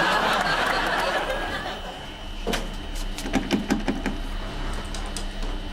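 Studio audience laughter dying away in the first couple of seconds, followed by a single click and then a quick cluster of clicks and knocks.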